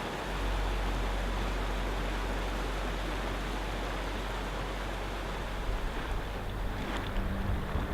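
Steady rush of flowing water, an even hiss with a low rumble beneath it. Low steady tones come in near the end.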